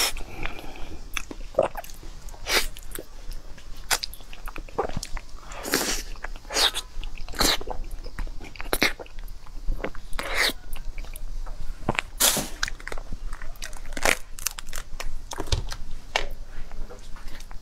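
A person biting and chewing food close to the microphone, with irregular crunches and mouth sounds every second or so.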